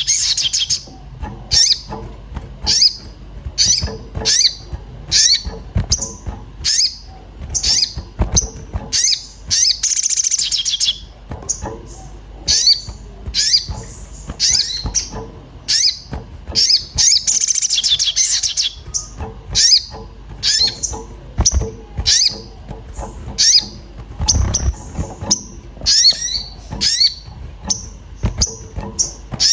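An agitated sogon songbird gives sharp, high chirps, about two a second, broken three times by a longer rapid trill. These are excited 'emosi' calls of the kind used as a lure to set other birds singing.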